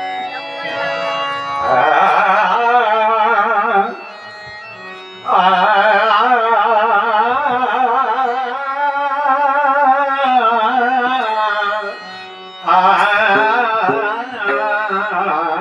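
Male bhajan singer holding long, heavily ornamented vowel notes over steady harmonium tones. The wavering voice comes in three long phrases, with short breaks where only the harmonium is heard.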